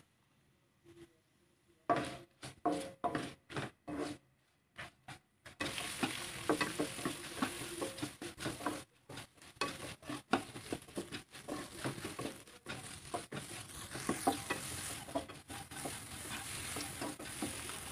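Shrimp heads and shells frying in a little oil in a non-stick wok, sizzling and crackling as they are stirred around the pan. A few separate stirring strokes come about two seconds in, and a steady sizzle takes over about five and a half seconds in.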